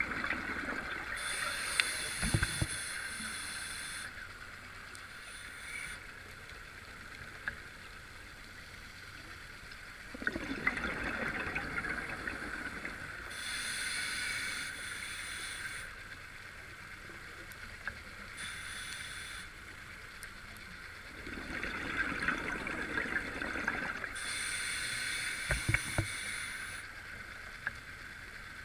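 Scuba diver breathing through a regulator underwater, three breaths: each a gurgling rush of exhaled bubbles followed by the hiss of the regulator on the next inhale.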